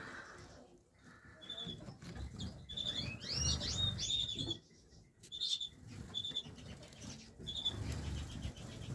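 Small caged finches calling: short high cheeps repeated every second or so, with a quick run of rising twittering notes about three seconds in. Low bumps and rustling of handling or movement sit underneath.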